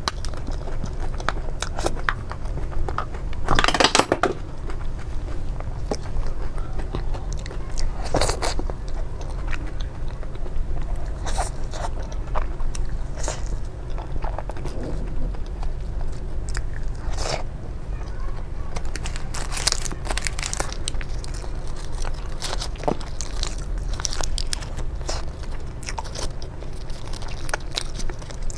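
Close-miked eating: crunchy bites and chewing, with louder crunches about four seconds in, around eight seconds in and near twenty seconds in, over a steady low hum.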